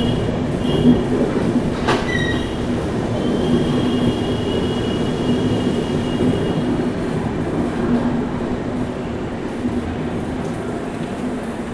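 Train running on the rails with a steady rumble and high wheel squeal, once briefly at the start and again for about three seconds from a few seconds in, with a single sharp click about two seconds in. The sound grows slowly quieter toward the end.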